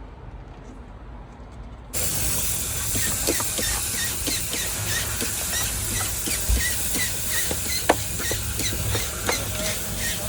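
Steam cleaner switched on about two seconds in, giving a loud, steady hiss that holds, with short high squeaks and a few clicks over it.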